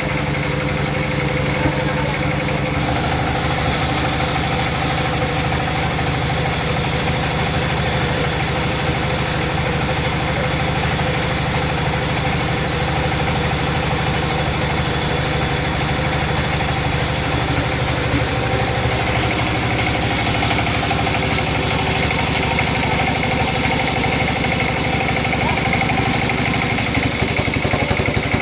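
Sawmill machinery running steadily, a constant loud drone with a fast, even pulse, its pitch shifting slightly a couple of times.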